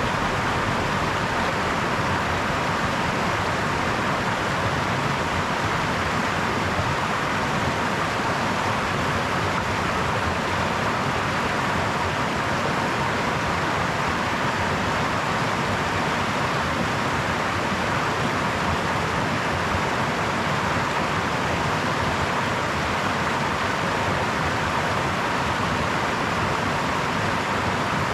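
Brook water running and babbling in a steady, unbroken rush.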